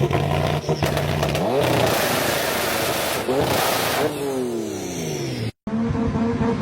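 Car engines and exhausts. The first engine holds a steady pitch, revs up, then falls in pitch as it comes off the throttle. After a sudden cut, a second engine runs at a steady pitch.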